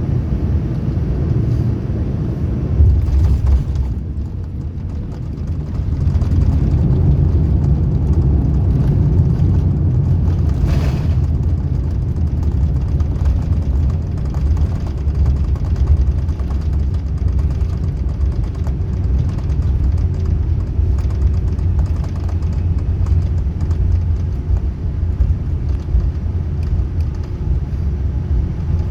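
Loud, steady low rumble inside the cabin of a Boeing 787-9 airliner during the landing. It dips briefly, then grows louder about six seconds in and holds there.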